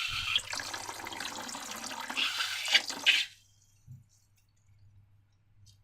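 Wet, crackly liquid sounds of slime material being handled, stopping abruptly about three seconds in, followed by near silence with one faint tap.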